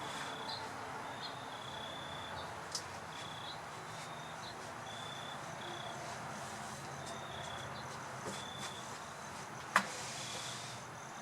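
Steady outdoor background noise with short, high-pitched chirps repeating every half second or so, and one sharp knock about ten seconds in.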